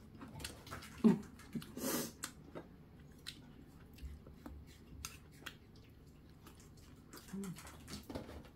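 Close-up mouth sounds of a person eating: soft wet chewing and smacking of stewed pork and kimchi, with scattered light clicks. Short low vocal sounds come about a second in and again a second later.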